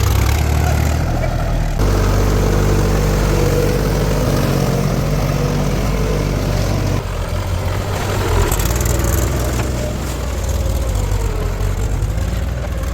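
Heavy diesel machinery engine running steadily, with abrupt changes in the engine note about two and seven seconds in, and a slight dip and rise in pitch near the end.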